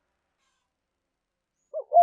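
Silence, then near the end a spotted dove starts its cooing call with two short, low coos.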